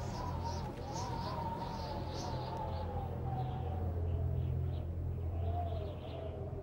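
Birds chirping in short, quickly repeated high calls over a steady low hum.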